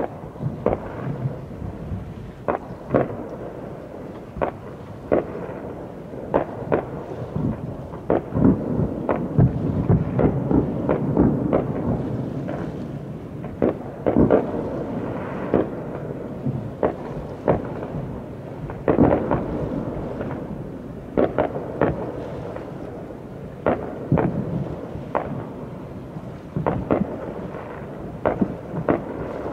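Aerial fireworks shells bursting over open water: a rapid, irregular run of sharp bangs whose echoes run together into a continuous rumble, densest around the middle.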